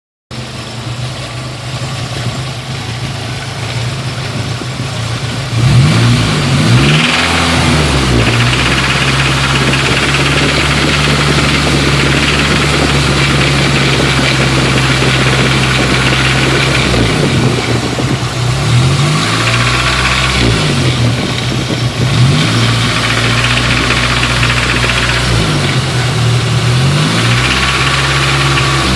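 Nissan 240SX's 2.4-litre KA24E four-cylinder idles for about five seconds, then is revved up and held at higher rpm, dropping and rising again several times. Above about 2500 rpm it makes a rattle that seems to come from the front cover, which the owner thinks may be a bad timing chain tensioner, the timing chain, or something in the internals.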